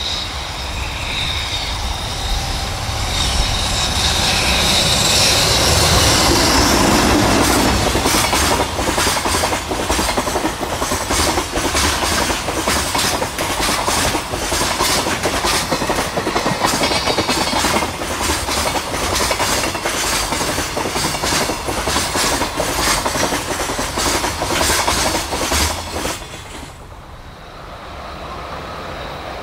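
JR Freight EH500 electric locomotive passing with a container freight train, then the container wagons rolling by with a fast clickety-clack of wheels over rail joints. The noise drops off suddenly near the end as the train clears.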